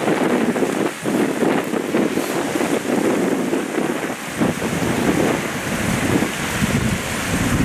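Strong wind buffeting the microphone, with waves splashing on the shore underneath.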